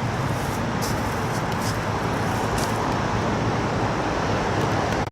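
Steady engine and airflow noise of an Airbus A318 heard inside the passenger cabin, a constant low rumble with a few faint clicks.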